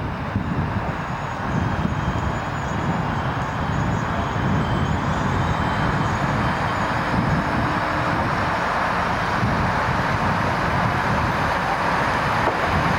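A vehicle running steadily, its noise building over the first two seconds and then holding.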